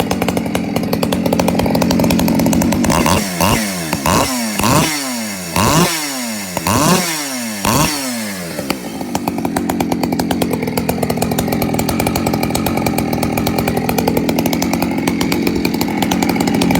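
Husqvarna 372XP two-stroke chainsaw with a homemade Ironhorse-style muffler, running loud at high revs. From about three seconds in it is blipped about six times, roughly once a second, each rev falling away, and then it is held at high revs again.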